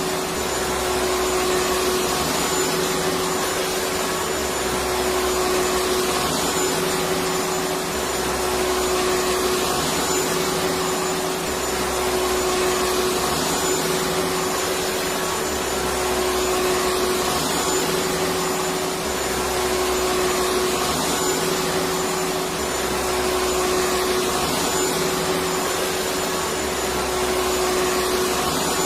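Electric vacuum cleaner running continuously: an even rush of airflow over a steady motor hum, with a low rumble that swells and fades about every four seconds.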